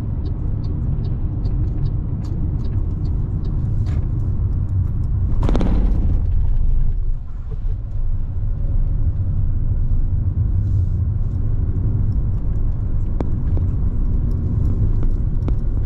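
Car driving, with steady low road and engine rumble. A brief louder rush of noise comes about five and a half seconds in.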